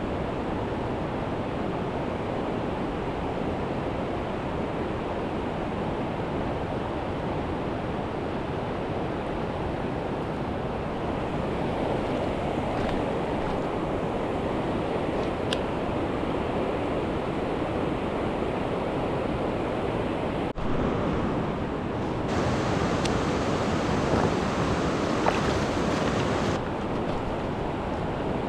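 Mountain stream rushing over rocks, a steady full-range roar of water; the stream is running high after heavy rain. A brief dropout comes about twenty seconds in, after which the rushing sounds a little brighter.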